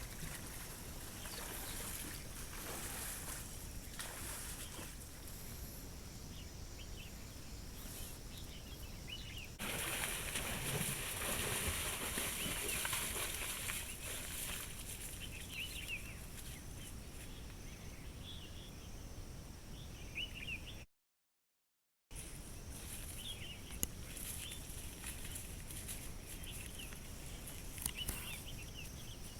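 Jungle ambience with many short bird chirps over a steady background hiss. A louder, noisy hiss comes in for about four seconds near the middle, and the sound drops out completely for about a second later on.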